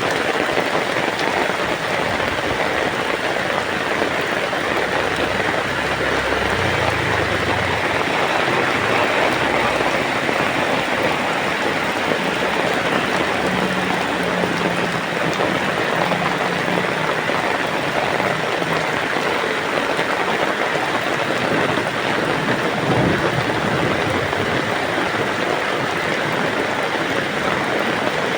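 Heavy rain falling steadily, a dense even hiss, with a brief low rumble about seven seconds in.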